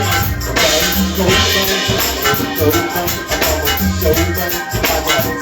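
A live band playing an instrumental groove, with a steady bass line under busy, regular percussion.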